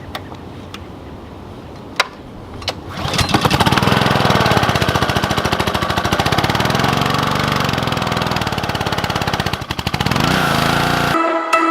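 Small gasoline engine of a pressure washer catching about three seconds in and running at a steady speed, dipping briefly and picking up again near the end.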